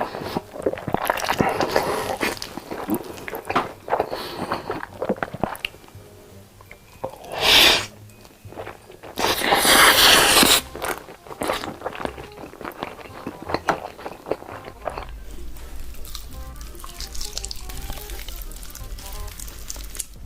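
Close-miked eating: crunching bites and chewing, with two loud crunching bursts in the middle, over background music.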